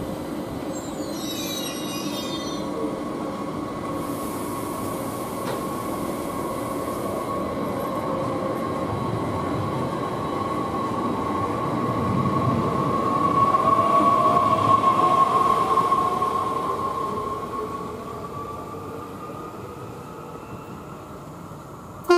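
SNCF B 82500-series TER multiple unit (Bombardier AGC bi-mode) running along the station track away from the platform. A steady whine with wheel-on-rail noise grows loudest about two-thirds of the way through, then fades. A second tone climbs in pitch as the train accelerates away.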